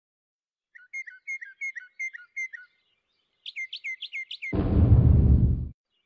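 A bird chirping in two quick runs of short repeated notes, about three a second. It is followed near the end by a loud, deep burst of noise lasting about a second that cuts off suddenly.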